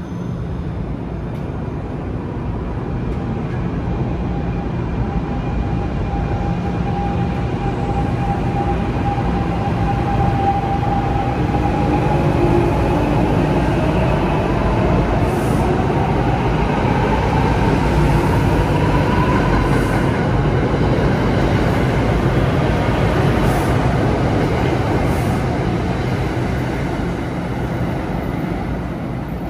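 Passenger train running along a station platform: a steady rumble of wheels on the rails that builds over the first half and eases slightly near the end, with a whine rising in pitch through the middle.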